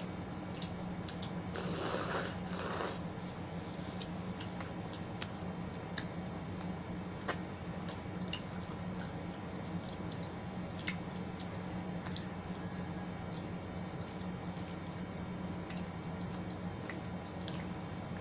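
Close-miked eating sounds: soft chewing and scattered small clicks, with two short rustling bursts about two seconds in, over a steady low hum.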